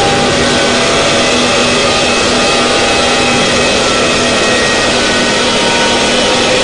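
Harsh noise and drone music: a dense, unchanging wall of distorted noise with several held drone tones inside it, one of which drops out about halfway through.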